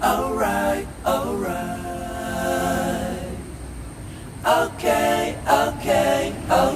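Singing in a song: a long held note, then shorter sung phrases.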